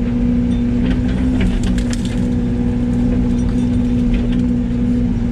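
Yanmar ViO80 excavator's diesel engine running steadily under work while brush and branches crack and snap as they are crushed, with scattered sharp cracks throughout.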